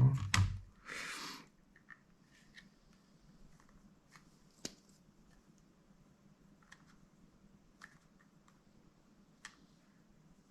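Sparse, faint small clicks and taps from handling parts inside a laptop while an internal connector is unplugged, with a brief rustle about a second in.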